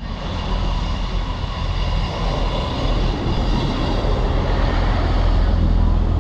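A passenger train running past close by: a loud, steady rumble of wheels on rails and engine, with several steady high tones above it, growing slightly louder.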